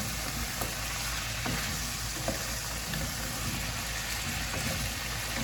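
Chicken pieces frying and sizzling in their own rendered fat in a pan, a steady sizzle with a few faint clicks.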